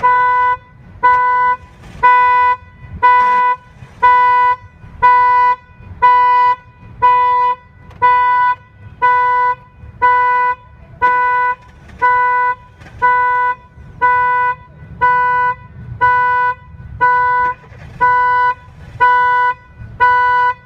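Chevrolet Spark's anti-theft alarm going off, sounding its horn in even, steady-pitched honks about once a second.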